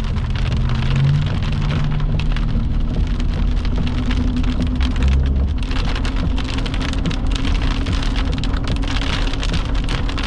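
Heavy rain pelting a vehicle during a severe thunderstorm, a loud, dense patter without a break, with a steady low hum underneath.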